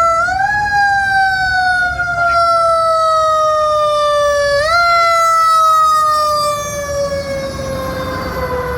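Fire engine siren wailing. Its pitch jumps up twice, once right at the start and again about four and a half seconds in, and each time slowly winds back down. A low engine and road rumble sits underneath.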